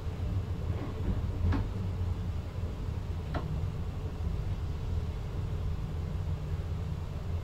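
Steady low rumble of a VIRM double-deck electric train, heard from inside the driver's cab, with two short sharp clicks about a second and a half and three seconds in.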